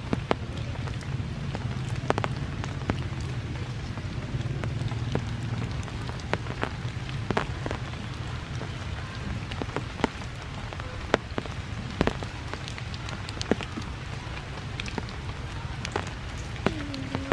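Steady rain falling on forest foliage, with many scattered sharp drips and taps over a constant low rumble. Near the end a pitched, sliding sound begins.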